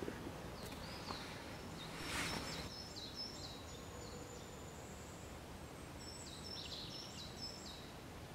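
A songbird singing faintly in two phrases of short, high, stepped notes, over quiet forest background.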